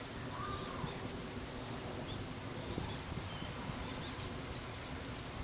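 Steady outdoor background noise with a low hum, and a few small birds calling over it: a short whistled note about half a second in, then three quick rising high chirps in the second half.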